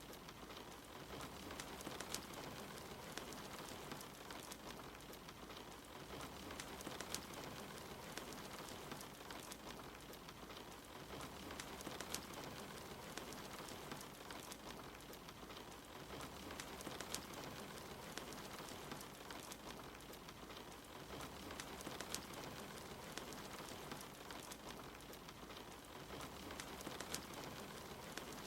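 Soft, steady rain with the scattered sharp crackles of a wood fire in a fireplace, a crackle every few seconds.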